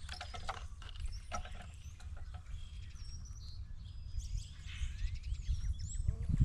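Birds chirping and calling over a steady low wind rumble, with a few sharp clicks and taps from animals working over the feeder table.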